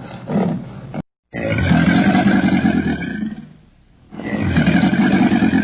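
A large animal roaring: two long calls of about two seconds each, the first just after an abrupt cut about a second in.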